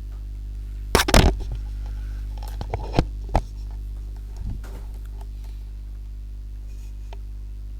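Scattered sharp clicks and knocks, a cluster about a second in and a few more over the next two and a half seconds, over a steady low electrical hum.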